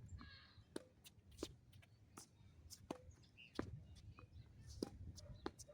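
Tennis balls being struck and bouncing in a practice rally: sharp pops every second or so, over a low wind rumble on the microphone.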